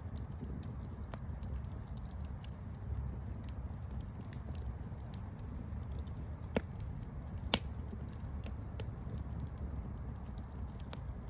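Wood campfire burning with a steady low rush of flame and scattered small crackles. Two sharper pops come a little past the middle, and the second is the loudest.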